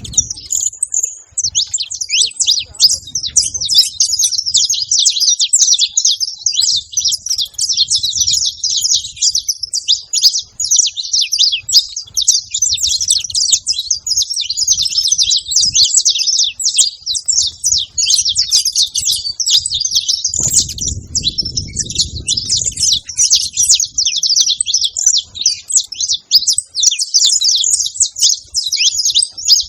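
A flock of saffron finches chirping and singing together: a dense, unbroken chatter of many overlapping high calls. A faint low rumble joins in about two-thirds of the way through.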